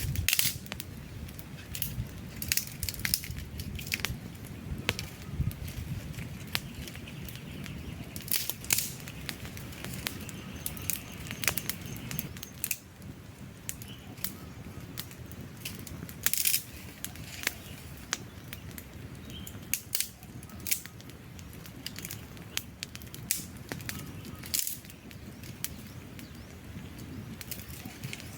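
Wood fire burning: a steady low rumble of flames with sharp, irregular crackles and pops from the burning logs.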